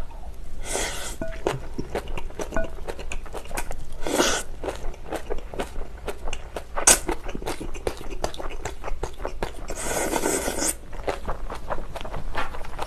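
Chewing and crunching of spicy napa cabbage kimchi with rice, close to the microphone: many small crunches and wet chewing sounds, with a few louder, longer bursts of sound.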